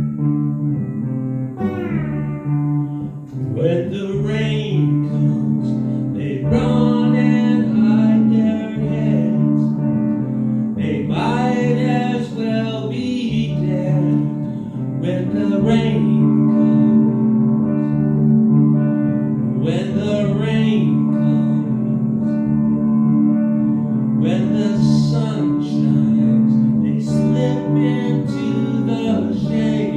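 Pedal steel guitar playing a melody with notes that slide up in pitch, over a steady sustained chord layered from a loop.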